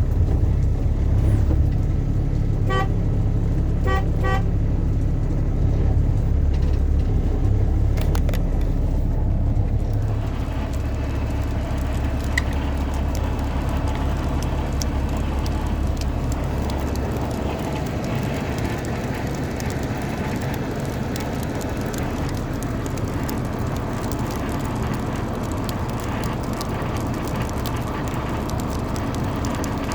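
Steady low rumble of a running vehicle engine, with two short horn toots about three and four seconds in. The rumble drops lower and rougher about ten seconds in.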